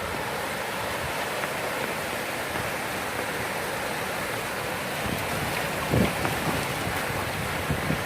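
Steady rushing noise of fast-flowing floodwater or rain, with wind buffeting the microphone in a few low bumps about six seconds in and near the end.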